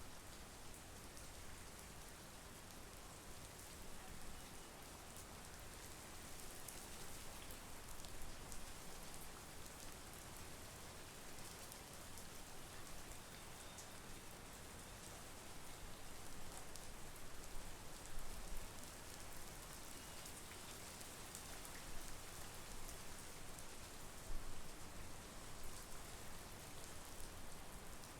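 Steady monsoon rain falling, an even hiss with fine drops pattering, over a low rumble.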